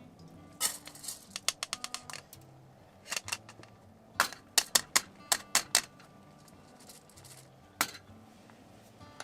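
Irregular bursts of sharp clicks and taps, several in quick succession at times, over faint background music.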